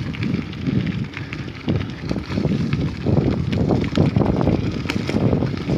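Wind buffeting the microphone of a rider on the move: an uneven low rumble in gusts, growing stronger about three seconds in.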